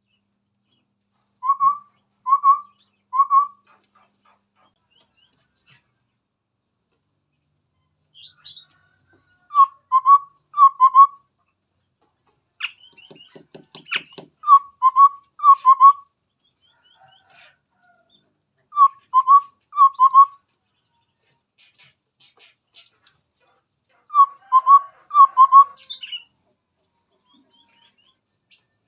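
Chestnut-rumped babbler calling: short, clear whistled hoots in quick groups of two or three, repeated every few seconds, with faint higher chirps between them. About halfway through, a brief rapid clicking rattle.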